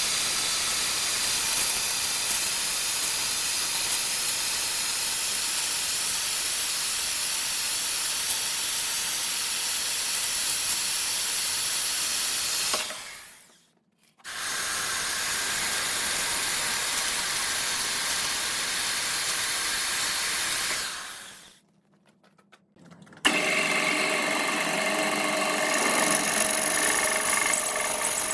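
Wood lathe turning a workpiece, with a cutting tool taking a steady hissing cut from the spinning wood. It drops out twice, briefly. Near the end a steadier machine sound with a humming tone takes over.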